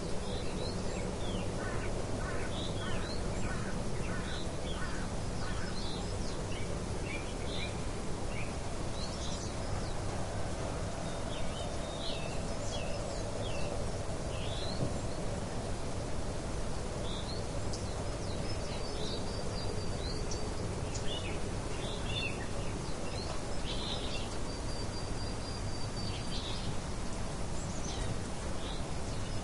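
Several songbirds chirping and trilling over a steady low outdoor hum, with a few longer whistled notes near the middle and near the end.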